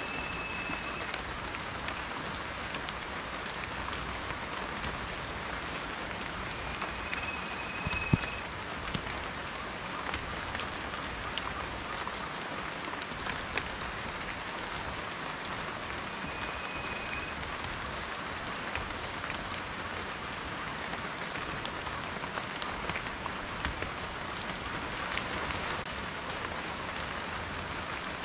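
Steady rain falling, a continuous hiss with scattered individual drops ticking and one sharper drop impact about eight seconds in. A brief high whistle-like tone is heard three times over the rain.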